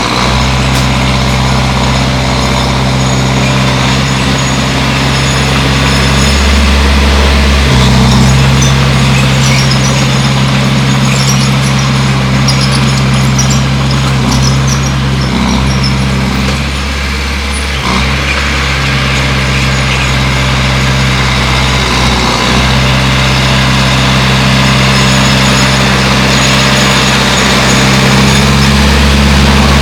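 Bulldozer's diesel engine running steadily, with its note shifting a few times as the load changes while it pushes earth.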